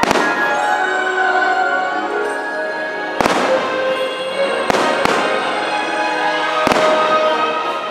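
Aerial firework shells bursting overhead: about five sharp bangs spread over the few seconds, one at the very start, then a pair close together and a last one near the end. The fireworks show's music plays steadily underneath.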